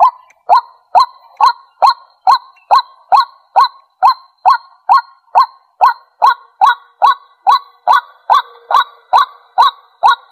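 White-breasted waterhen calling, a steady string of short, loud 'kwak' notes, about two a second, repeated some two dozen times.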